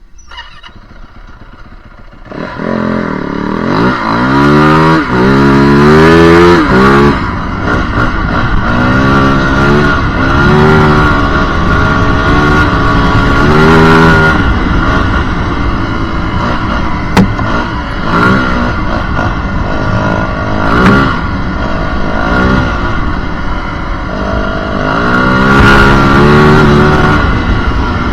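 Yamaha WR450F's 450 cc single-cylinder four-stroke engine under hard riding: quiet for the first two seconds, then loud, with revs repeatedly rising and dropping as the bike accelerates and shifts gears.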